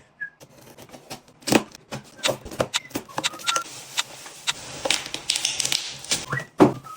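Surface Pro packaging being handled and opened: a run of irregular taps and clicks of cardboard and plastic, with a stretch of rustling and sliding in the middle and a few brief squeaks.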